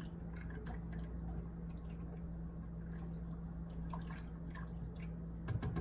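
Creamy sauce bubbling in a pot on the stove as it comes to the boil: scattered small pops and blips over a steady low hum. A couple of soft low thumps near the end.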